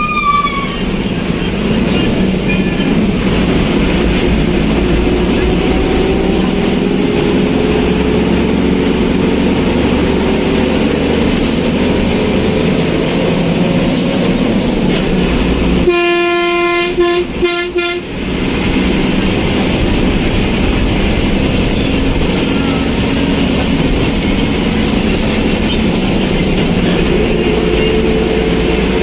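Steady running noise of a road vehicle on the move, with a horn honking for about two seconds just past the middle.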